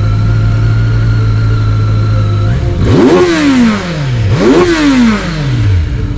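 Vehicle engine idling, then revved twice in quick succession; each rev climbs sharply in pitch and winds back down.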